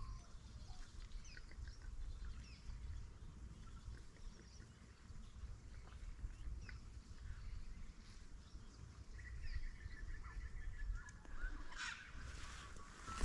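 Faint scattered bird calls and chirps over a low steady rumble, with a quick run of repeated notes about two-thirds of the way in.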